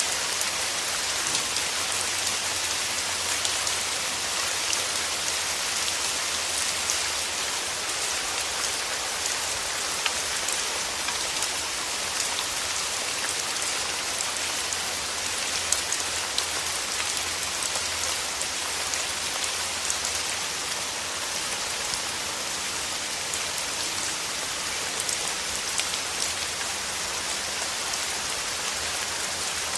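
Steady rain, with many individual drops pattering on a surface throughout.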